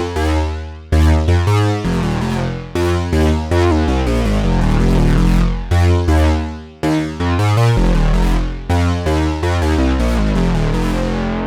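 Sequential Fourm four-voice analog polyphonic synthesizer playing a factory preset with no effects: chords and bass notes struck about once a second, each with a bright attack whose top end dies away.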